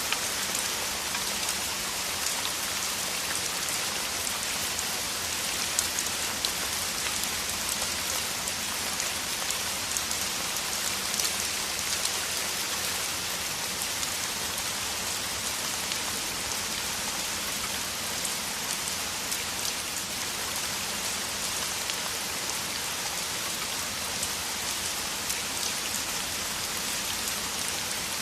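Steady heavy rain falling, with a dense hiss and many sharp individual drop ticks.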